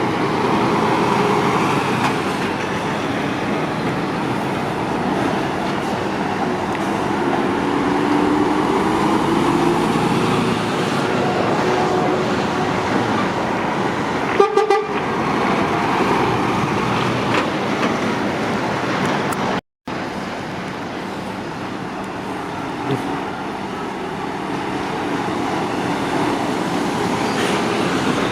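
Steady motorway traffic noise from passing lorries and cars, engines rising and falling as they go by, with a short horn toot about halfway through. The sound cuts out for a moment about two-thirds of the way through.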